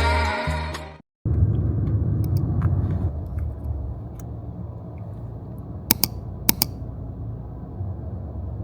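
Steady low rumbling noise, like the inside of a moving vehicle, with a few sharp clicks about six seconds in and near the end. Background music fades out in the first second.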